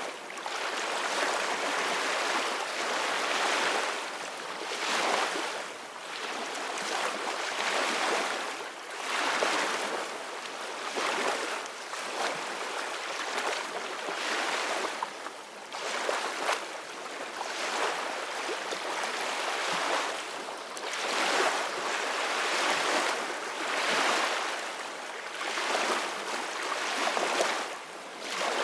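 Ocean waves washing in and breaking: a rushing hiss that swells and falls back every second or two.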